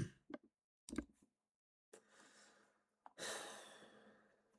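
A man's long sighing exhale, starting about three seconds in and fading out, after a fainter breath and a couple of small clicks. Otherwise near silence.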